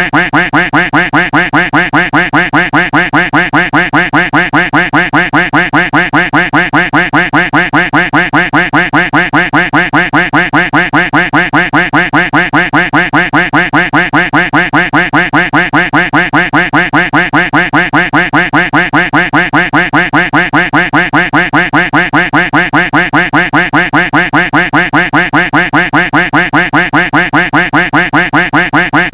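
Duck quack sound effect looped without a break, the same quack repeating several times a second at a steady pace.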